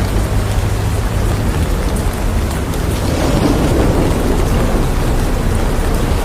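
Heavy rain falling steadily, with a low rumble that swells and fades about three to five seconds in.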